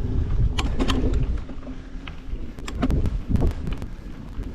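Wind buffeting a bike-mounted action camera's microphone as a low, uneven rumble, with scattered clicks and rattles from the bicycle riding over the road.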